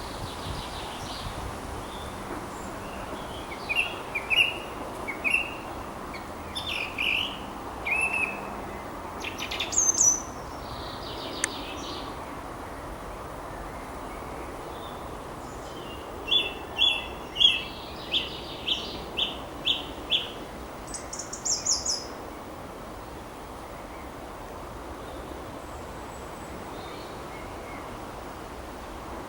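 Thrush singing in short, varied phrases, including a run of about seven quick repeated notes a little past the middle, over a steady background hiss.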